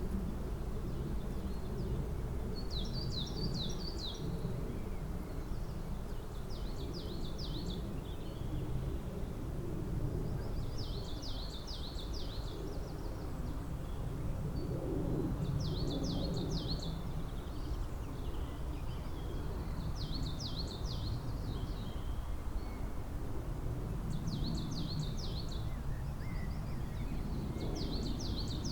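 A songbird repeats the same short song phrase of quick, high notes, each phrase about a second long, every four seconds or so. Under it runs a steady low outdoor rumble.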